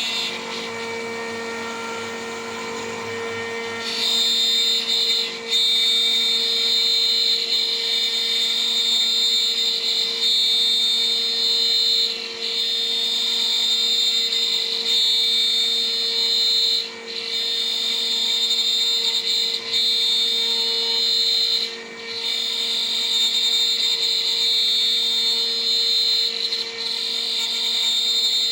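A DIY CNC router's spindle, spinning a 3 mm three-flute end mill at about 14,000 RPM, runs with a steady hum. From about four seconds in, the cutter is milling and adds a loud high whine, which drops out briefly several times.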